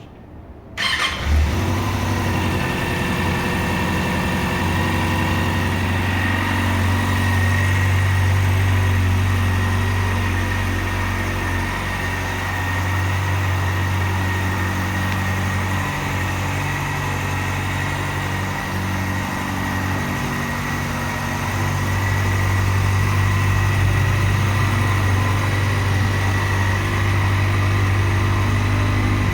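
2022 Kawasaki Ninja ZX-6R's inline-four engine starting about a second in, catching at once and then idling steadily, with a thin steady whine above the engine note.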